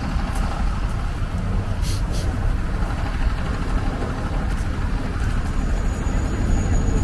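Street traffic: a steady low rumble of motor vehicles on the road, with a couple of faint clicks about two seconds in.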